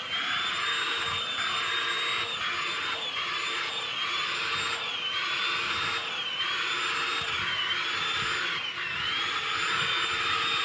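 Milwaukee M18 cordless compact vacuum running steadily, a high motor whine over a dense rush of airflow. The whine dips briefly in pitch and recovers several times.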